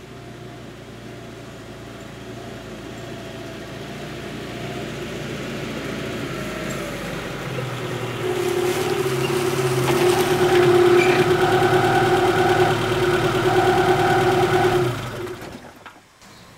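The engine of a compact four-wheel-drive vehicle draws near and grows louder, then runs steadily close by at an even pitch. It cuts off suddenly near the end.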